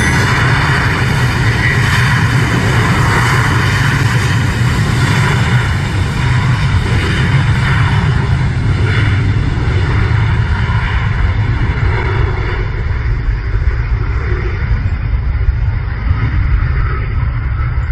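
Jet airliner engine noise at close range: a loud, steady rush over a deep rumble, its high hiss fading gradually over the second half as the aircraft draws away.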